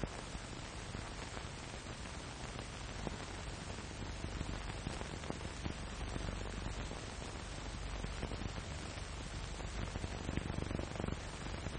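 Hiss and crackle of an early sound film's worn soundtrack, with a steady low hum and scattered faint clicks.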